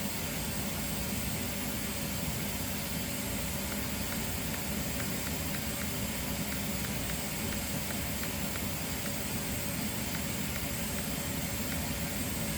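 Steady fan-like whooshing hiss with no change in level. A run of faint, evenly spaced light ticks comes through in the middle.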